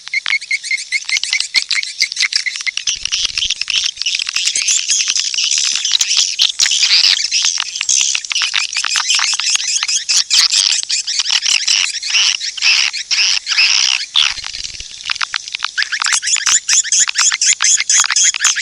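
Swiftlet lure-call recording: a dense, continuous chatter of many rapid, overlapping high-pitched swiftlet chirps and twitters, the kind of call track played to draw swiftlets into a nesting house.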